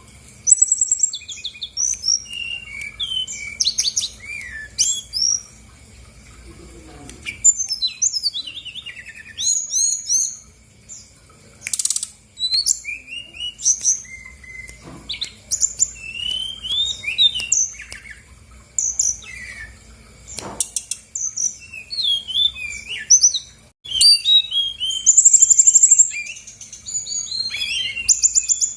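Brown-chested jungle flycatcher singing a fast, varied song of chirps, rapid trills and gliding whistles, pouring out its repertoire of mimicked calls.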